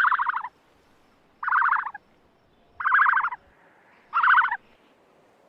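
An animal calling four times at a steady pace, each call a short, fast rattling burst of about half a second.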